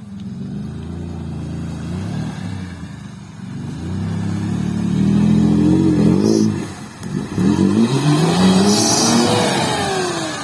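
Off-road vehicle engine revving hard in two long surges, its pitch climbing and falling, with a brief dip between them.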